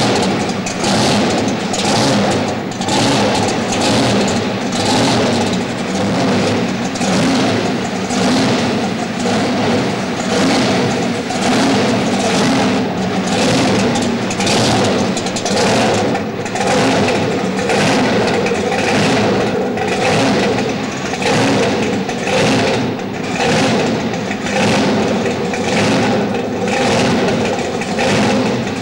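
Supercharged, fuel-injected V8 of a fourth-generation Chevrolet Camaro drag car running loud, its throttle blipped in short revs about once a second.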